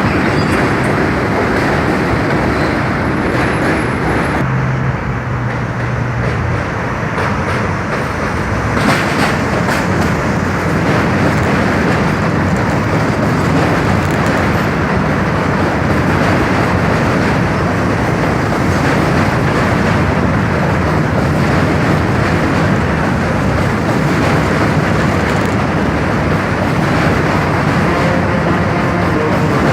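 New York City subway train running past on the J/M/Z line, a loud continuous rumble and rattle of steel wheels on the track.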